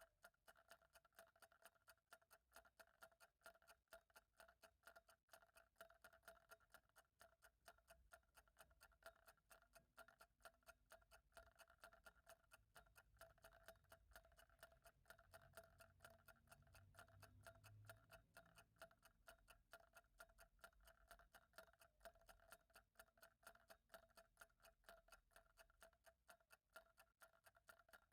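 A clock ticking quietly and steadily, each tick short and evenly spaced, with a faint low rumble in the background around the middle.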